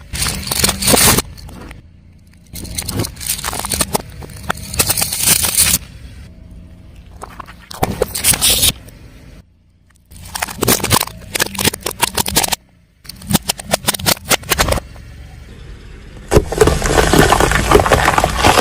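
Car tyre rolling over and crushing crunchy objects: loud crackling, snapping and crunching in about six separate bursts that start and stop suddenly, with the last one the longest.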